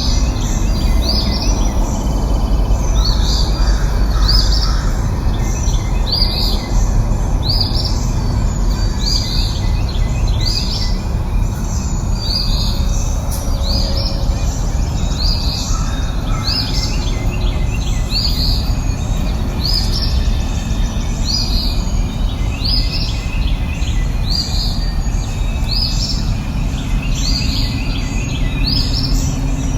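A bird calling over and over, one short high chirp about every second and a bit, over a steady low rumble of background noise.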